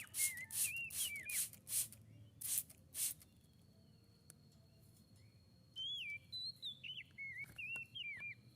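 Tledekan laut, a blue flycatcher, singing short phrases of clear whistled notes that rise and fall. One phrase comes in the first second or so, then a pause, then another phrase from about six seconds in. Several short noisy bursts come in the first three seconds.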